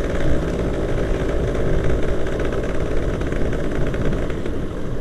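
Yamaha F1ZR two-stroke single-cylinder motorcycle engine running steadily while being ridden.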